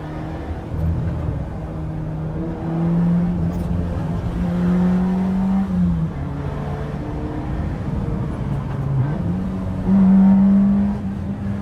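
Peugeot 206 GTI's four-cylinder engine pulling hard through straight-piped exhaust and open BMC intake: the note climbs through the revs, drops about halfway through at a shift or lift, then climbs again and is loudest near the end.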